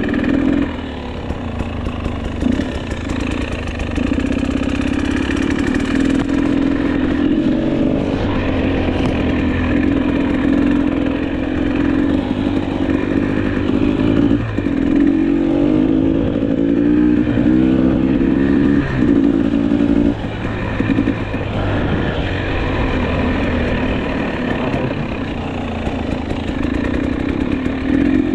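GasGas EC300 two-stroke enduro motorcycle engine running while riding, revving up and dropping back repeatedly as it shifts gears, with a run of quick rising revs around the middle.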